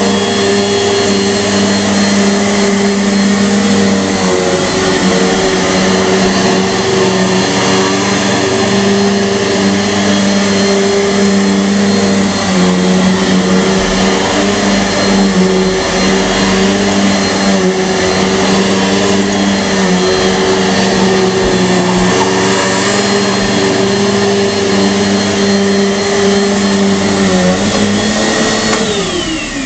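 Bissell PowerForce bagless upright vacuum cleaner running steadily with a motor hum and rushing air. Just before the end it is switched off and the motor winds down, its pitch falling.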